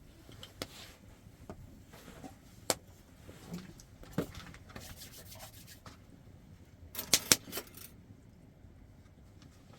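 Scattered light knocks, clicks and rubbing of kitchen things being handled while cooking, with a quick run of loud clicks about seven seconds in.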